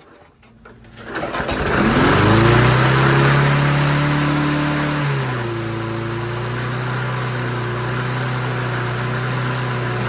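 Small four-stroke walk-behind lawnmower engine starting about a second in, rising quickly to speed and running steadily. About halfway through its speed drops slightly and holds there. The engine is back to running after a carburettor clean and a throttle repair.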